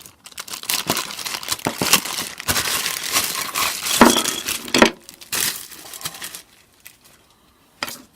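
Crinkling of packaging with a run of sharp clicks and taps as a jigsaw blade is handled and pushed into the Ryobi jigsaw's blade holder. The loudest clicks come about four and five seconds in, and the handling stops about six and a half seconds in, leaving one last click near the end.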